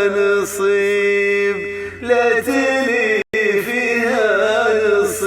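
Male voice singing an Arabic chant in long, wavering held notes, with a brief cut-out about three seconds in.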